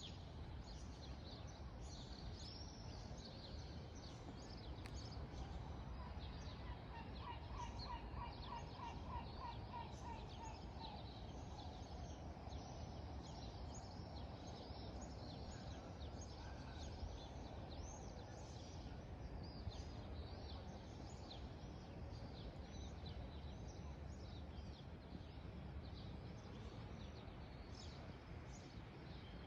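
Many birds chirping and twittering over a steady low rumble. About seven seconds in, one louder bird call of about a dozen quick repeated notes runs for some three seconds.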